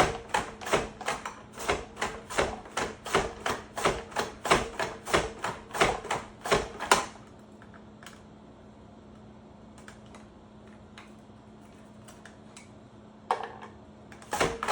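Carrots being sliced on a mandoline slicer: a quick, even run of sharp cutting strokes, about three a second. The strokes stop about halfway through, leave a pause with a few light clicks, and start again near the end. A low steady hum runs underneath.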